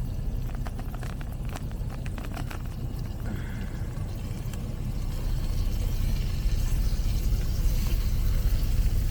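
Steady low rumble of an idling truck engine, with a run of light clicks and taps in the first two and a half seconds.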